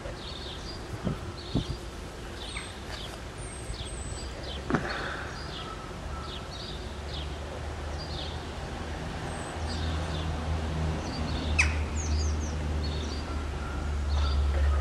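Small birds chirping, short high chirps repeating about twice a second with a few higher whistled notes, over a low steady rumble that grows louder from about halfway through. There are a few sharp clicks, the loudest near the end.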